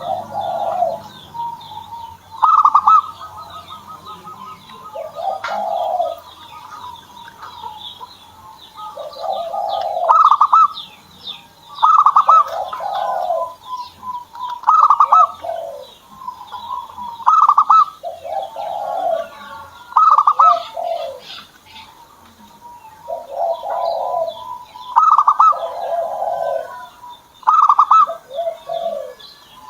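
Zebra dove (perkutut) cooing over and over. Each phrase is a higher note that falls to a lower rolling coo, repeated roughly every two to three seconds. Small birds chirp faintly and high in the background.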